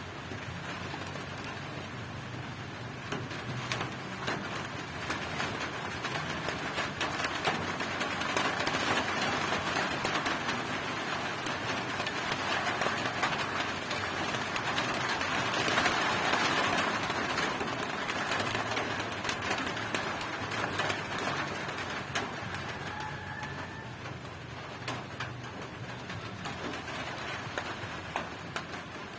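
Heavy rain falling steadily as a dense patter of drops, growing heavier in the middle and easing off later. A short rising chirp comes near the end.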